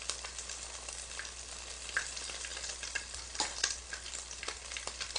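Egg-battered pollock fillets (dongtae-jeon) sizzling in hot oil in an electric pan: a steady frying hiss with scattered louder crackles.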